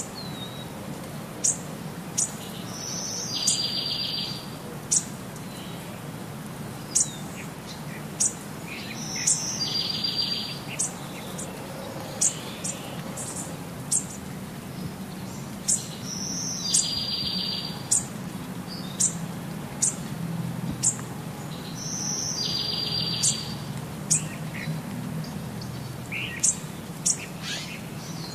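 Birds chirping: many short, sharp high chirps, with a buzzy call that repeats about every six and a half seconds, over a low steady background hum.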